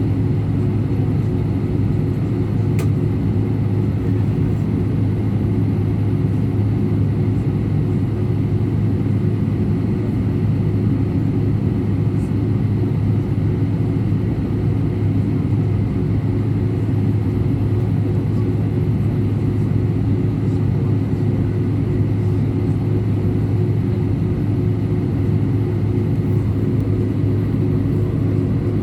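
Steady engine and airflow drone inside the cabin of an Airbus A319 airliner: a constant low hum with no rise or fall in pitch. There is one faint click about three seconds in.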